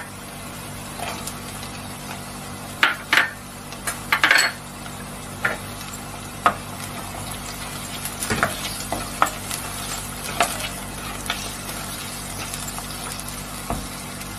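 Onion and potato cubes sizzling steadily in hot oil in a non-stick pot, with irregular knocks and scrapes of a spatula against the pan as they are stirred.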